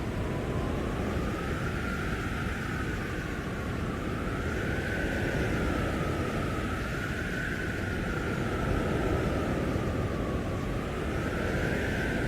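Blizzard wind blowing hard in a steady rushing roar, with a thin howling whistle above it that slowly wavers up and down in pitch.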